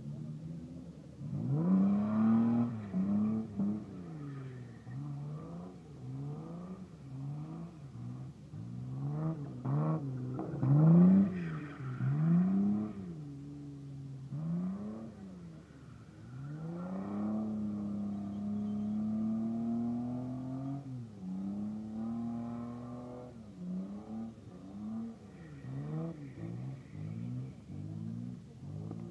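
Opel Corsa A with a swapped-in C30SE 3.0-litre 24-valve straight-six and rear-wheel drive, revving up and dropping back over and over as it spins donuts. Around the middle it holds one long high rev before falling off again.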